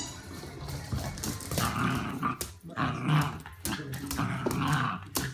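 A dog growling in a series of short bouts about a second apart, with scattered sharp clicks.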